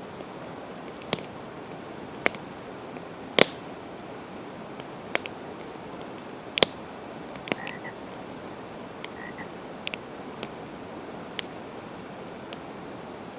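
Campfire of split evergreen wood crackling, with sharp irregular pops, the loudest about three and a half and six and a half seconds in, over the steady rush of a river.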